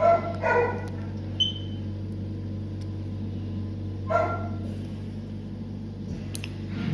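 A dog barking a few short times, over a steady electrical hum, with a short high beep about a second and a half in.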